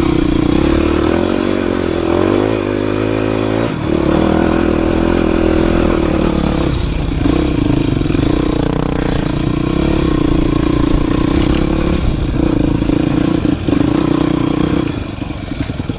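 Dirt bike engine running steadily while riding. The engine note breaks briefly about four seconds in, shifts again around seven seconds, and eases off near the end.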